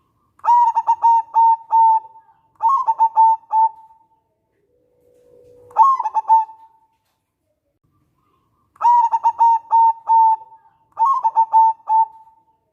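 Zebra dove (perkutut) cooing in five separate phrases. Each phrase is a quick run of stuttered notes over a clear, steady tone. One phrase, about six seconds in, opens with a lower held note.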